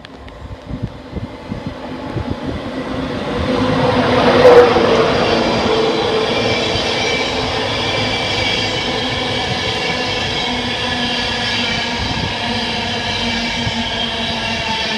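Train approaching, growing louder until about four and a half seconds in, then running on steadily at that level with several held tones over its noise.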